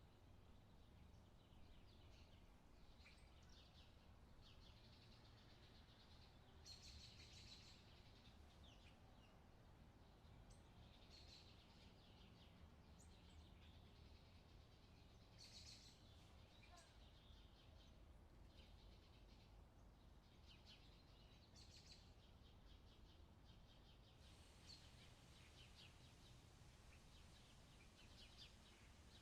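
Faint outdoor ambience: birds chirping and calling at intervals over a steady low background rumble.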